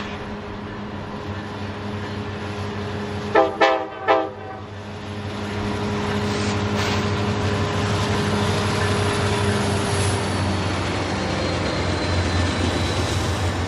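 Norfolk Southern diesel locomotives running with a steady low hum, sounding three quick horn blasts about three seconds in. The train's rumble then grows louder and stays steady.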